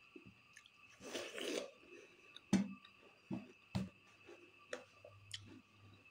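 A slice of watermelon being bitten and chewed close to the microphone: a crunchy bite about a second in, then chewing with several sharp smacking clicks.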